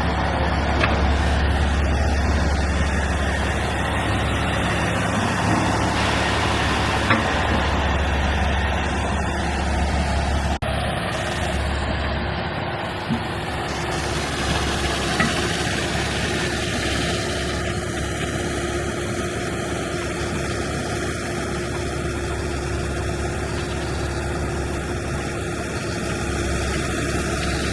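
A heavy vehicle engine running steadily, with a deep low drone; the sound shifts abruptly about ten seconds in and then carries on with a steady hum.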